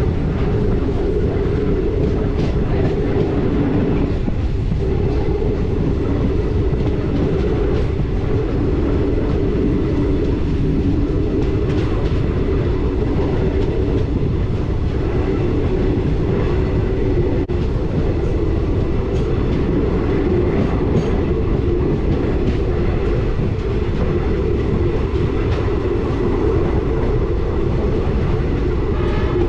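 Passenger express train running at speed: the steady rumble of the coach on the track, with wheels clicking over rail joints.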